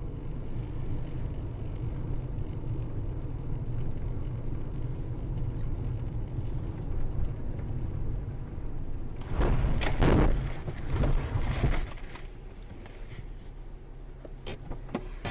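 Steady low rumble of a car driving, heard inside the cabin through a dashcam. From about nine seconds in, a louder rushing surge of noise lasts a couple of seconds.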